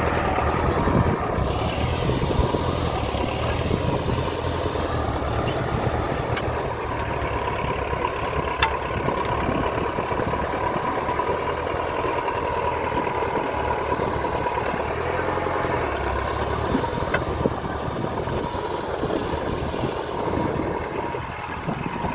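Massey Ferguson 590 tractor's diesel engine running steadily, growing a little quieter near the end.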